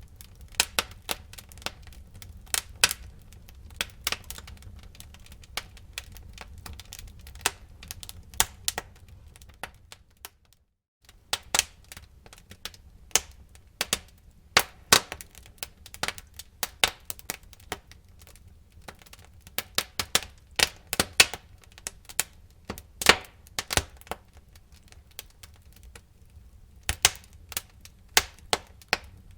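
Wood fire crackling in a fireplace: sharp, irregular snaps and pops, often several a second, over a steady low rumble. The sound cuts out for about half a second around ten seconds in.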